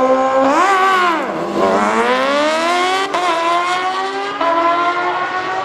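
Vehicle engine revving: a quick rise and fall in pitch about a second in, then a long steady climb as it accelerates, with a sudden step in pitch about four seconds in.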